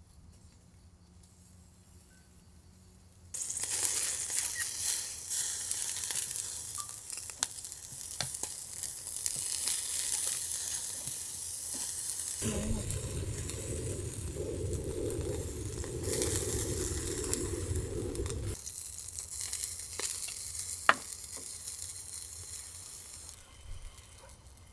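Skewered food sizzling on a charcoal grill: a steady crackling hiss with scattered pops. It starts suddenly about three seconds in and stops shortly before the end. In the middle a heavier, lower rushing noise joins it for about six seconds.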